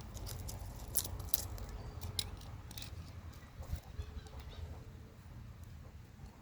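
Dry kindling and wood shavings crackling and snapping in scattered, irregular sharp clicks, with wind rumbling on the microphone.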